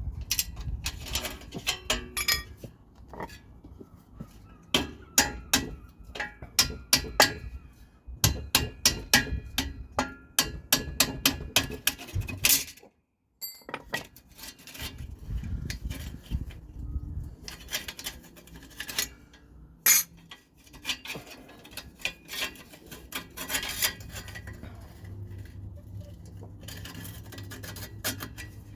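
Metal hand tools clinking and tapping against a car's exhaust pipe during a repair to its centre section: quick runs of sharp metallic knocks and clinks, with a brief silence about halfway through.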